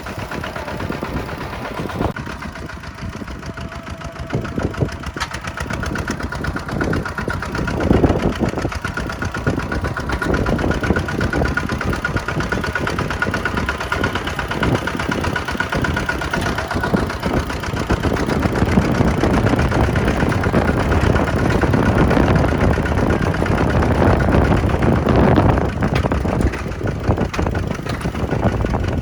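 Tractor diesel engine running continuously, with a faint whine in the middle stretch, growing somewhat louder in the second half.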